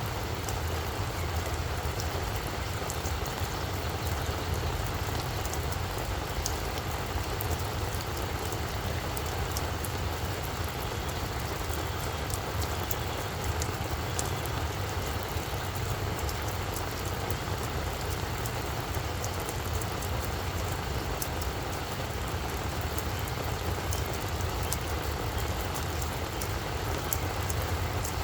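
Steady rain falling, with individual drops ticking sharply on leaves and surfaces, over a constant low rumble.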